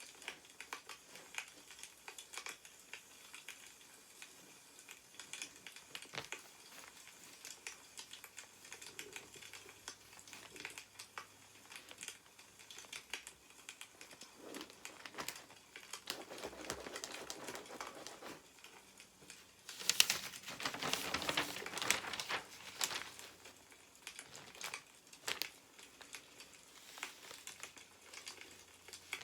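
Newspaper paper rustling and crinkling as pages are handled and turned, loudest about two-thirds of the way through. Small clicks and crackles are scattered throughout.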